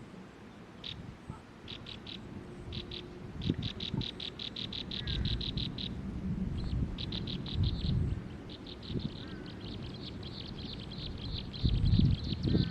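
A small bird calling in rapid series of short, high chirps: a few single notes, then fast runs of about eight a second that become almost continuous in the second half. Low rumbling thumps underneath, loudest near the end.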